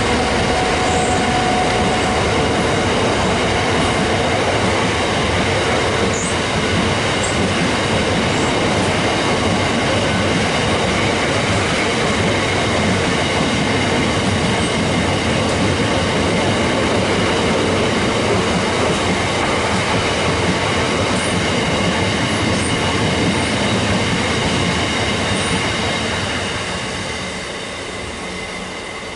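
Freight wagons behind a Class 66 diesel rolling past close by: a steady loud rumble and clatter of wheels on rail with steady high-pitched wheel squeal. The locomotive's engine note fades in the first couple of seconds, and the noise dies away near the end as the last wagon draws off.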